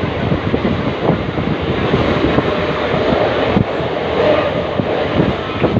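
Mumbai suburban local train running: a loud, steady rumble and rattle with a faint whine in the middle.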